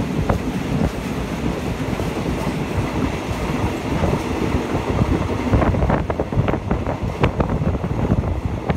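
Passenger train rolling along, heard from an open carriage window: a steady rumble of steel wheels on the rails, with sharp clicks of the wheels over rail joints growing frequent in the second half.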